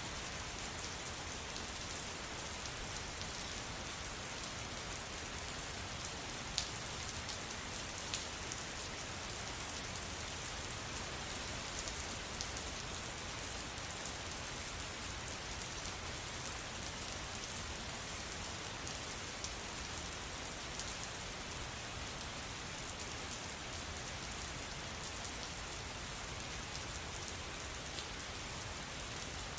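Steady rain falling, with the close patter of individual drops ticking on a surface now and then.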